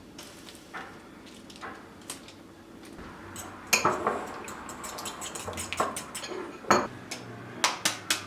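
Kitchen utensils and dishes clinking and clattering during food preparation: a few light clicks, then from about halfway a busy run of sharp knocks and clinks.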